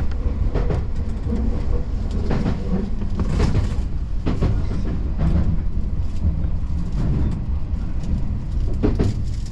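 Keio Inokashira Line express train running, heard from inside the leading car: a steady low rumble with irregular sharp clacks of the wheels over rail joints.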